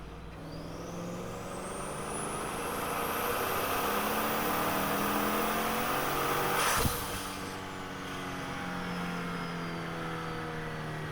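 Twin-turbocharged 5.3-litre V8 of a Chevrolet Tahoe accelerating hard. Engine note and turbo whistle rise together for about six and a half seconds. A short sharp rush of air comes as boost is vented, then the whistle winds down as the engine settles back.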